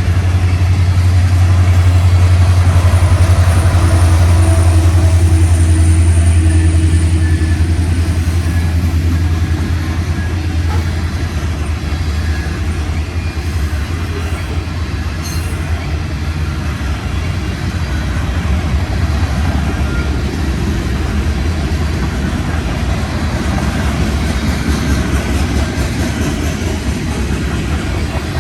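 Freight train of grain and coal hopper cars rolling past, with steel wheels clacking over rail joints. A low drone is loudest for the first several seconds and then eases off.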